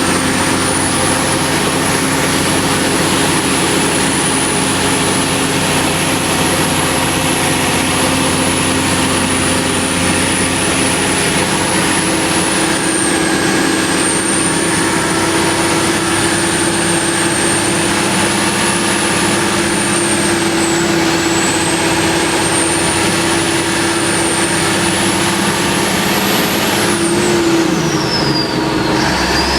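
Fire ladder truck's engine and road noise heard from the open cab while driving, loud and steady. A high whine wavers throughout and drops sharply in pitch near the end, together with a lower engine tone.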